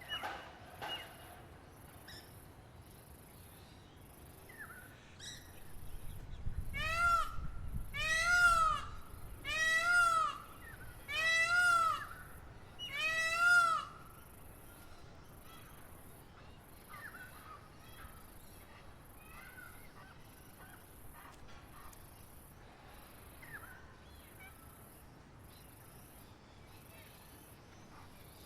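A bird gives five loud, nasal, honk-like calls in a row about a second and a half apart, each rising and falling in pitch. A high pulsing insect trill runs steadily beneath, with a few faint bird chirps.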